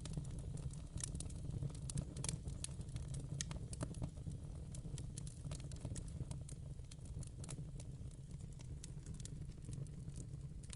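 Fireplace fire crackling, with many irregular sharp pops over a steady low rumble of the flames.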